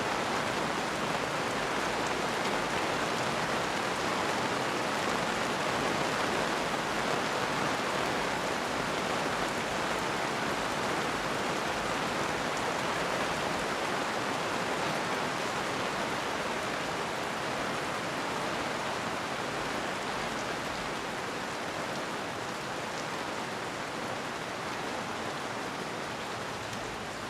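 Steady rain falling in an even, dense hiss, easing slightly in the last third.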